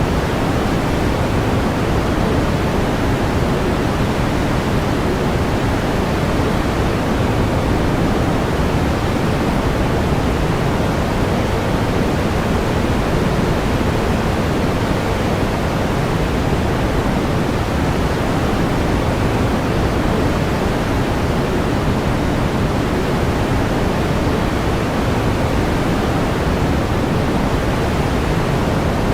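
Steady pink noise: an even, unchanging hiss weighted toward the low end, without tones or events.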